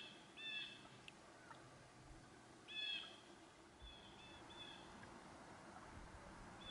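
A bird calling: short, clipped call notes, a pair near the start, a louder one about three seconds in, then a few softer ones. Faint steady background hiss.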